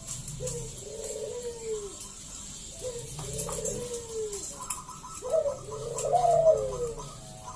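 Zebra dove (perkutut) cooing its song three times, each phrase a quick stuttering start running into a long arching note that falls away. A fast run of higher repeated notes joins in the second half.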